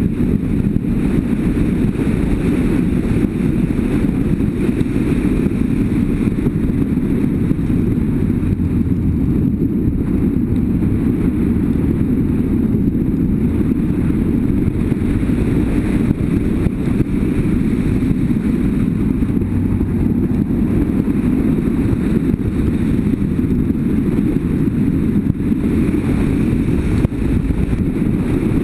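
Motorcycle running steadily on the move, with a low, even rumble of engine and wind rushing over the microphone.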